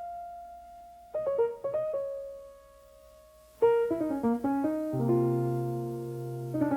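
Solo piano: a chord left ringing, a few notes about a second in, then a run of notes more than halfway through, with a bass line coming in about five seconds in.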